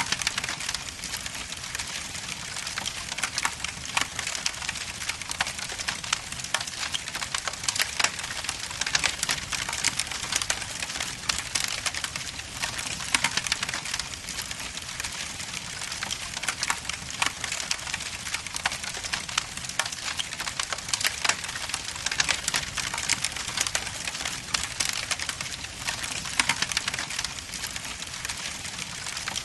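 Wood logs burning in a fireplace: a steady hiss with dense, irregular crackles and pops.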